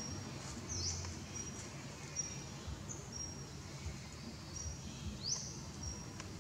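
Birds calling: a short high note repeated every half second to a second, with two quick rising calls, one about a second in and one near the end.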